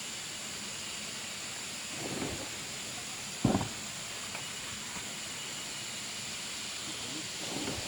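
A few knocks over a steady high hiss: a soft thud about two seconds in, a sharp single knock about three and a half seconds in, and another soft thud near the end.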